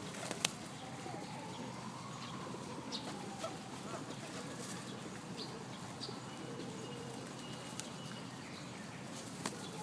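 Feral pigeons flapping their wings and cooing over a steady background hum, with a few sharp clicks scattered through.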